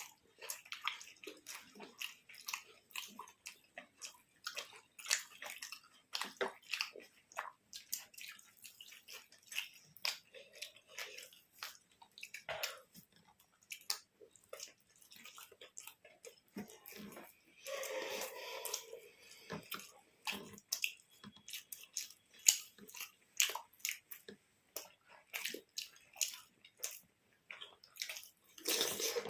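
People chewing and eating close to the microphone: a steady run of short wet smacks and clicks from mouths working on soft food.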